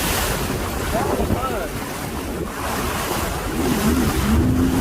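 Storm wind buffeting the microphone over rough, surging sea. A wavering pitched tone rises over the noise near the end.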